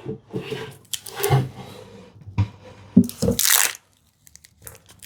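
Wooden drawer being pushed into and pulled out of its opening during a test fit, scraping and knocking against the sides, with one longer rasping slide about three seconds in. The drawer sits slightly too tight in the opening.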